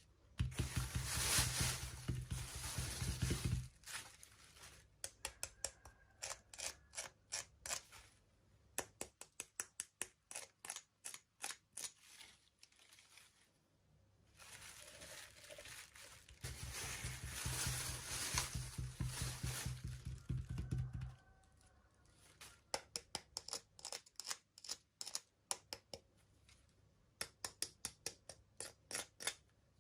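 Small plastic packaging and pieces being handled and opened by hand: two stretches of dense crinkling, one at the start and one past the middle, with runs of small sharp clicks between and after them.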